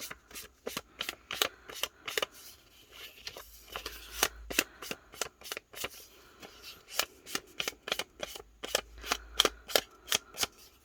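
Ink pad dabbed and swiped repeatedly along the edges of a paper ephemera piece: an irregular run of quick sharp taps and rubs, several a second.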